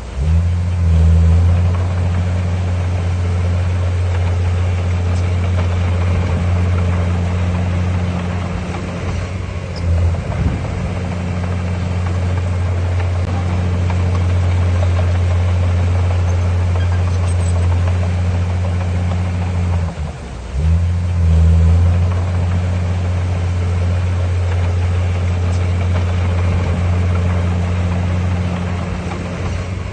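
Bulldozer's heavy diesel engine running steadily, a low drone that briefly drops and picks up again about two-thirds of the way through.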